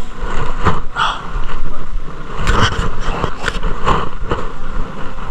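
Footsteps crunching on dry, loose ground and brushing through prickly dry scrub, in uneven strokes over a low wind rumble on the microphone.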